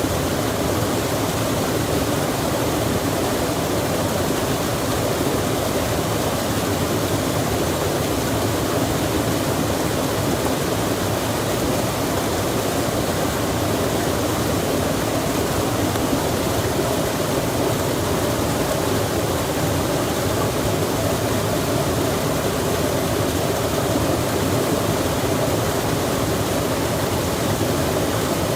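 A stream rushing steadily with rain falling on it, one even, unbroken wash of water noise, fullest in the low-middle range.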